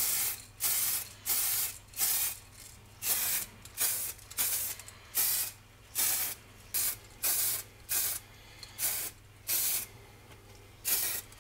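Aerosol spray can of primer hissing in short bursts, about two a second, laying a light undercoat on the reel's metal side plates. There is a brief pause near the end before the last bursts.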